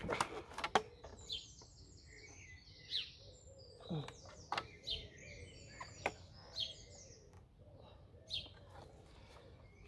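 Small birds chirping and twittering in short repeated phrases in the background, with a few light knocks and clicks scattered through.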